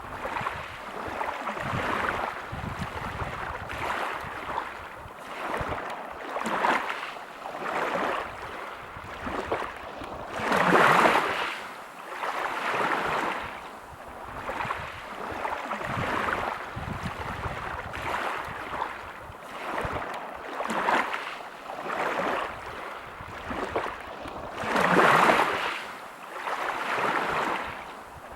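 Sea waves breaking and washing back over a pebble beach: a hissing surge that rises and falls every couple of seconds, with two larger waves, a third of the way in and near the end.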